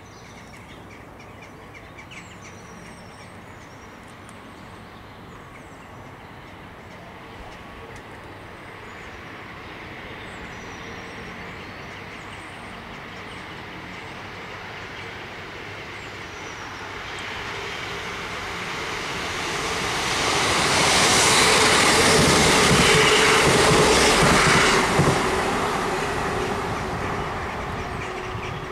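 A train passing unseen on the main line: a rumble that builds for about twenty seconds, is loudest near the end with a steady hum running through it, then fades.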